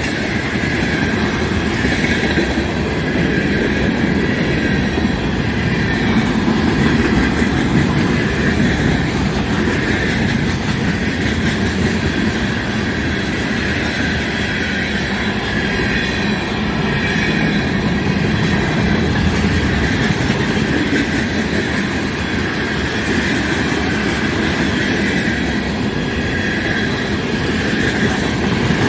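Freight cars of a CN mixed-freight train rolling past at speed: a loud, steady rumble of wheels on rail with clickety-clack over the rail joints.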